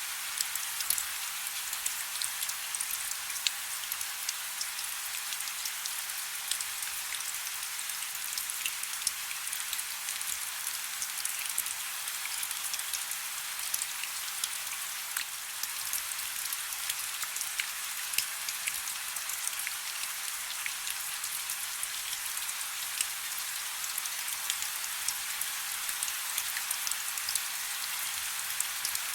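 Steady soft rain: a continuous hiss of rainfall with many small individual drops ticking on a surface.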